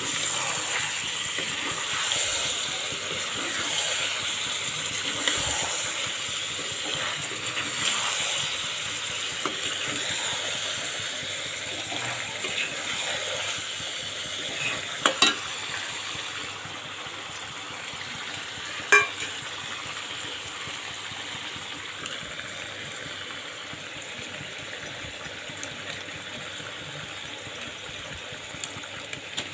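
Chicken and masala paste sizzling in oil in an aluminium kadai while being stirred with a metal spatula. There are a few sharp clinks of the spatula against the pan, and the sizzle softens about halfway through.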